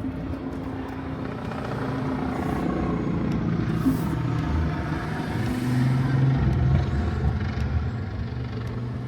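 A motor vehicle running with a low hum, growing louder to a peak about six to seven seconds in and then easing off, as a vehicle passing close by would.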